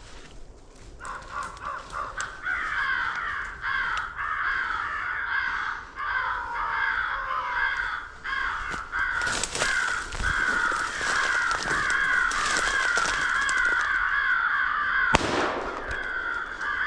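Crows cawing in a dense, continuous chorus of rapid falling caws. About fifteen seconds in, a single sharp, loud crack or click cuts across the calls.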